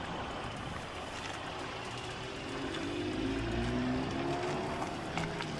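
A motor vehicle's engine running over outdoor background noise. Its pitch rises slowly and it grows a little louder in the middle, then eases off.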